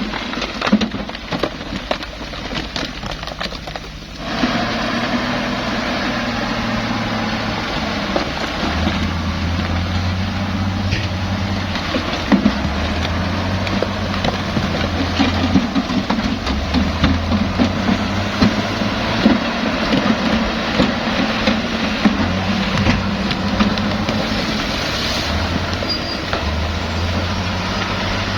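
Komatsu D68E bulldozer's diesel engine running under load, its low note stepping up and down, with scattered knocks and clanks. The first few seconds are quieter, with clicks and knocks, before the engine sound comes in sharply about four seconds in.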